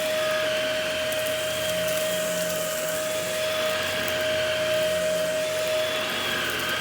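Shark vacuum cleaner running on carpet: a steady motor whine over a rushing airflow noise, the whine dropping away briefly near the end.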